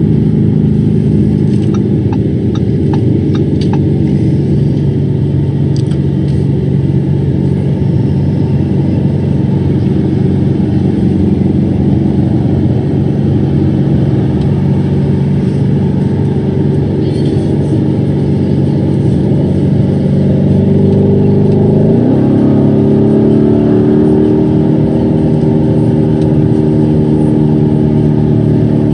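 Lamborghini engine heard from inside the cabin, running steadily at highway speed in fifth gear. Late on, it downshifts to fourth: the engine note rises quickly and then holds at a higher pitch.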